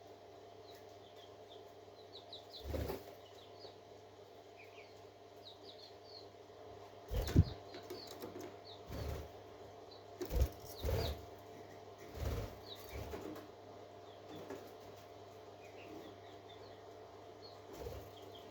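Parakeets chirping softly, short high chirps scattered throughout. Several short low fluttering thumps come through, the loudest about seven seconds in, over a faint steady hum.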